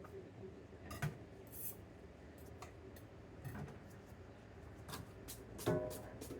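Scattered kitchen clicks and knocks of utensils and a knife on a cutting board, irregular rather than a steady chopping rhythm; the loudest, about two thirds through, has a short ringing clink like metal or a bowl.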